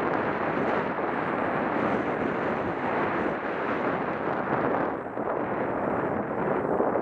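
Wind rushing over the camera's microphone as a skier descends through powder, a steady loud noise that dips briefly about five seconds in.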